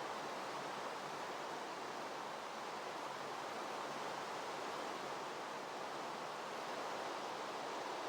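Rain falling: a steady, even hiss with no let-up.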